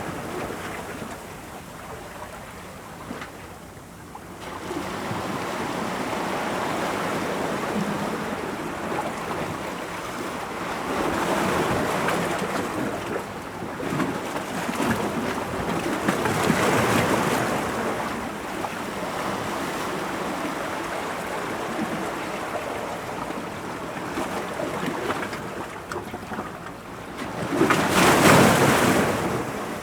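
Ocean waves breaking against rocks, a continuous wash of surf that swells and ebbs every few seconds, with the biggest surge near the end.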